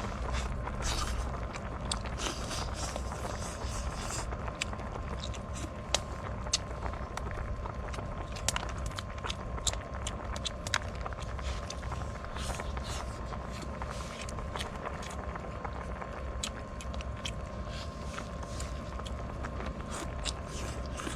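Wood fire crackling, with irregular sharp pops scattered through it, over a steady low rumble.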